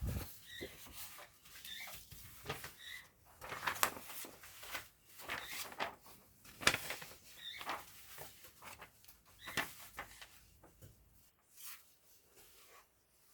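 Handling of a Surface Pro 12-inch keyboard cover: irregular clicks, taps and rustles as it is moved and examined, quieter in the last couple of seconds. A few faint short high chirps sound among them.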